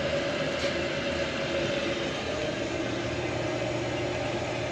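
Toilet fill valve running steadily, water hissing into the tank with a faint steady whistle, now that a plastic cap that had been blocking it is cleared.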